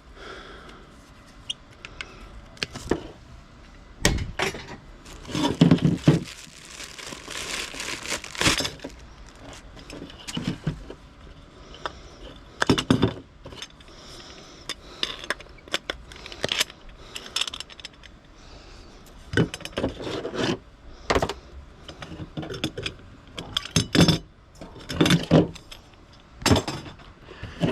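Pieces of scrap being handled and tossed onto piles and into bins: irregular knocks, clinks and clatters of metal and plastic, with louder bursts of rattling every few seconds.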